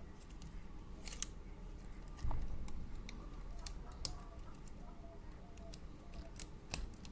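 Irregular sharp clicks and scrapes of a hand tool working against the small metal parts of a laptop hard drive as a stuck part is forced and broken loose, with a dull knock about two seconds in.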